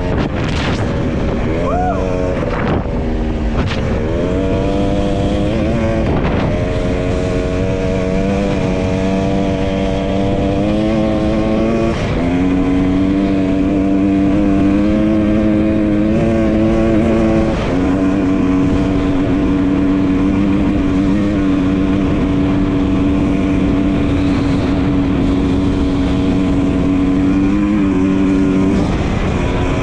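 Dirt bike engine under way, revving up and dropping back several times in the first few seconds and then pulling at a steady pitch. The pitch shifts about twelve and eighteen seconds in, over a steady rush of noise.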